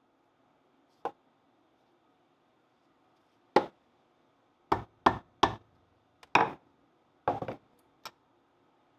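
Hammer blows on the Land Rover Series 2 swivel housing while the steering swivel pin is being freed: about eight sharp knocks at uneven intervals, a cluster of three in quick succession in the middle.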